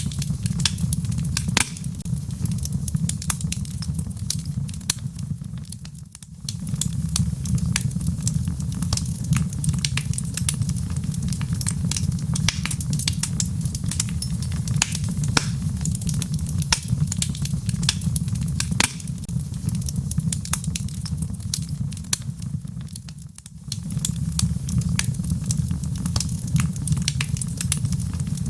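Wood fire burning in a fireplace: a steady low rumble of the flames with dense, irregular crackles and pops from the burning logs. The sound dips briefly twice, about 6 s and 23 s in.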